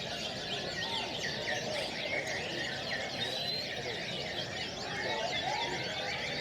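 Many canaries singing at once, a dense mix of overlapping chirps and trills.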